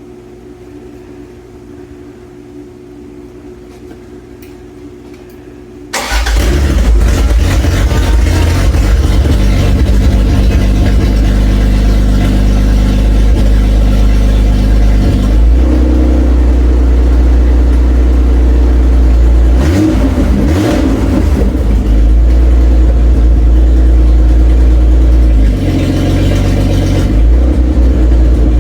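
A steady, quieter hum, then about six seconds in the Toyota Cressida MX83's rebuilt engine fires and catches on its first start. It keeps running loud with the exhaust not yet fully plumbed in, its pitch and level shifting a couple of times.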